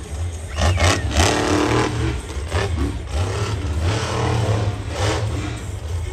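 Monster truck engine revving hard in repeated throttle surges, its pitch climbing and falling every second or so over a steady low engine rumble.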